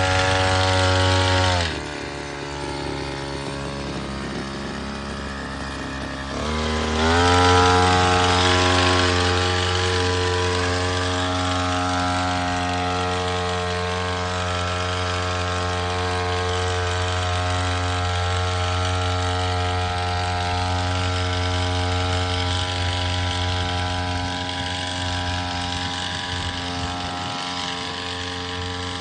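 Small two-stroke petrol engine of a spray pump machine running at high speed, dropping to idle about two seconds in, then revving back up a few seconds later and running steadily at speed.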